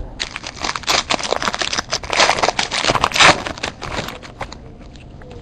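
Trading cards being handled and flipped through, a quick run of clicks and rustles that dies down about four seconds in.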